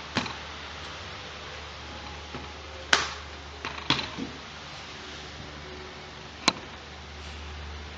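A few separate sharp clicks and knocks as the laptop's drive-bay parts are handled during the hard-drive swap, the loudest a crisp click about three seconds in and another about six and a half seconds in.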